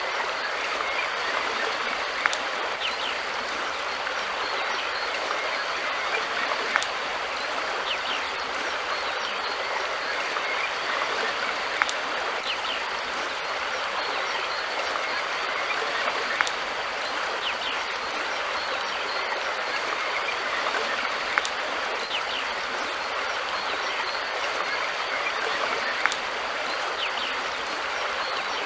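River water flowing steadily. A sharp click sounds about every four to five seconds.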